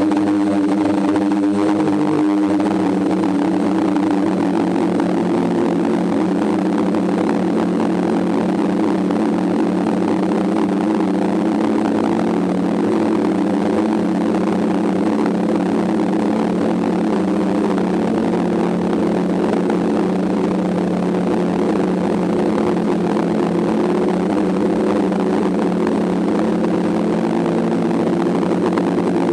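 DJI F550 hexacopter's six electric motors and propellers humming steadily in flight, heard loud and close from the camera on the airframe; the pitch wavers briefly in the first couple of seconds as the motor speeds change, then holds steady.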